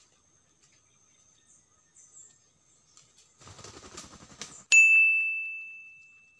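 A short burst of flapping wings and rustling dry leaves as a red jungle fowl takes flight, followed by a loud bell-like ding that starts suddenly and fades out over about a second and a half.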